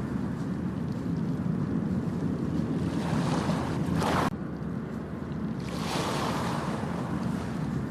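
Ocean waves washing onto a beach over a steady low rumble, with two surges of surf hiss; the first cuts off abruptly about four seconds in.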